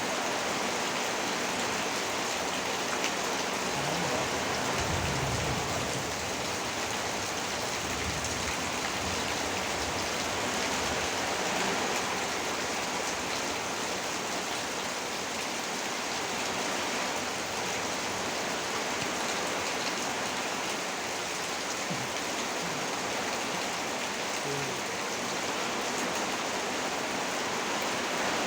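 Heavy rain falling steadily, a dense even hiss, with a few brief low rumbles about five and eight seconds in.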